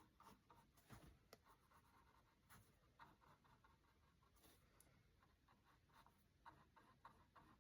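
Faint, irregular scratchy strokes of a paintbrush working acrylic paint on canvas.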